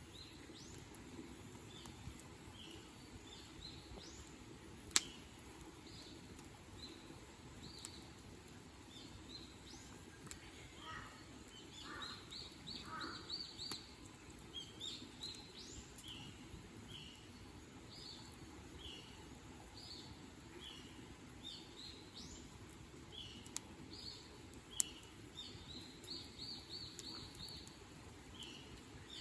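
Small birds chirping, many short high calls repeated in runs, over a faint steady outdoor background. Two sharp snaps stand out, about five seconds in and near the end.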